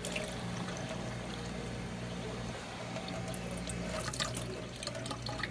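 Portable dishwasher's drain pump running with a steady hum while water flows out of its drain hose into the sink at the start of a wash cycle.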